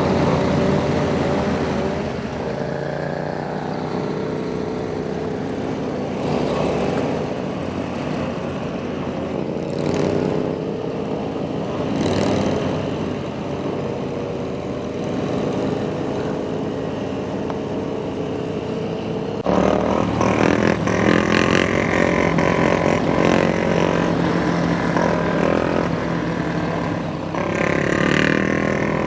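Motorcycle engines running and revving, their pitch rising and falling, with a sudden jump to louder engine sound about two-thirds of the way through.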